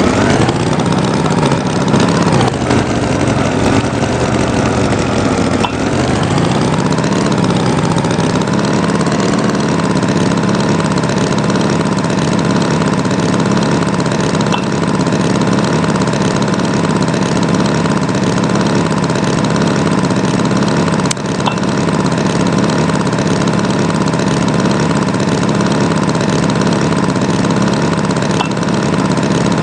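Tractor engine idling steadily; its pitch wavers a few seconds in, then settles.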